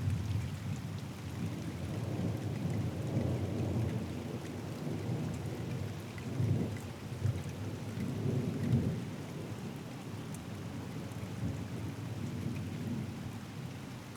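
A long roll of thunder rumbling on through steady rain, swelling loudest about six and a half and again about nine seconds in before easing off.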